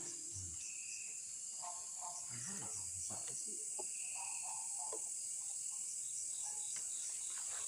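Night insect chorus: crickets trilling steadily in a high continuous drone, with another insect call pulsing at an even rhythm. Faint low voices come through in the first few seconds.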